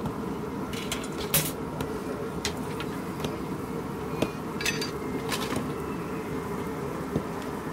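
Passenger train running, heard from on board: a steady rumble with scattered sharp metallic clicks and rattles, about half a dozen, the loudest about a second and a half in.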